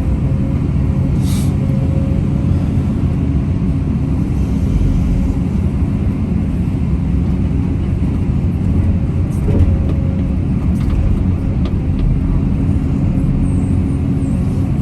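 Heavy diesel engine running steadily at a constant speed. A brief high-pitched hiss or squeal sounds about a second and a half in.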